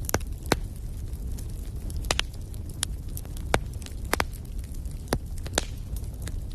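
Wood fire in a fireplace crackling: sharp pops come at irregular intervals, about ten in all, over a steady low rumble of the flames.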